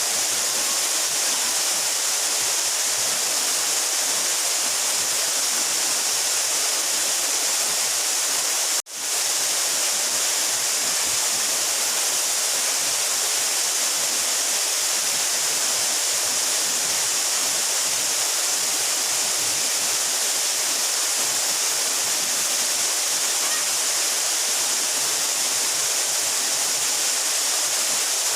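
A 12-metre mountain waterfall, its water falling in a steady, hissing rush. The sound cuts out for an instant about nine seconds in, then swells back.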